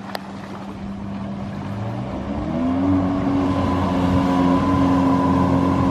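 Jet ski engine running, speeding up about two seconds in and then holding steady at the higher revs, with water and wind rush around it.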